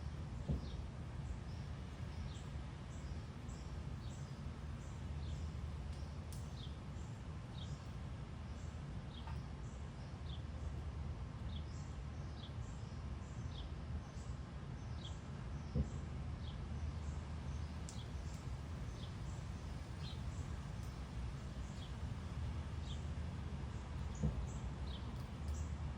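Short, high bird chirps repeating every second or so over a steady low rumble, with an occasional soft knock.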